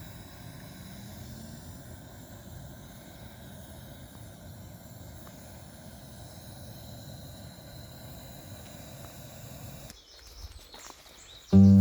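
Steady background noise with no distinct events, then music starts abruptly near the end.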